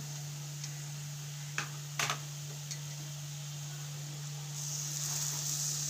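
Metal spoon knocking a few times against a kadai of fried onion masala, then, a little over four and a half seconds in, a sizzle rising as marinated chicken goes into the hot oil.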